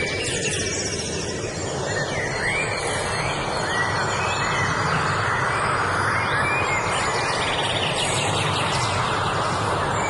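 Wild birds chirping and singing in short, scattered phrases over a steady rushing noise that fills the background.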